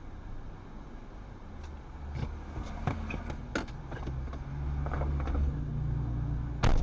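A car driving, with a steady low rumble of engine and road noise and a few light knocks, and the rumble growing louder towards the end. A single sudden loud bang comes near the end.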